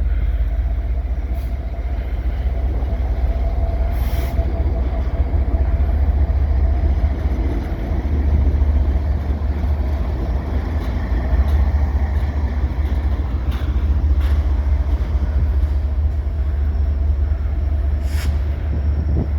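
Short freight train led by an SD70M-2 diesel locomotive passing: a steady heavy low rumble with a few sharp knocks spread through it.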